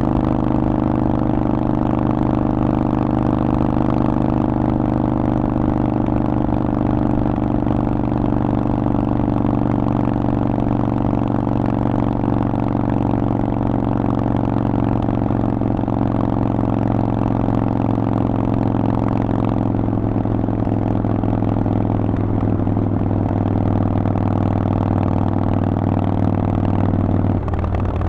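Harley-Davidson Forty-Eight's air-cooled V-twin running through a Vance & Hines exhaust, held at a steady engine speed. Near the end the engine note drops and changes.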